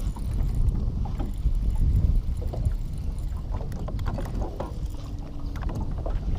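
Gusting wind rumbling on the microphone aboard an open aluminum fishing boat, with scattered light knocks and taps.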